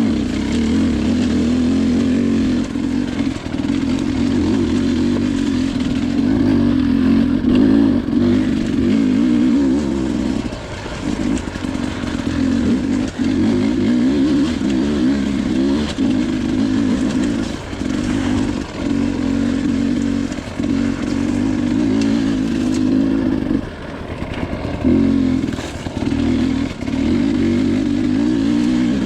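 Dirt bike engine running under load, its note rising and dropping as the throttle is opened and closed, with several brief dips where it is backed off.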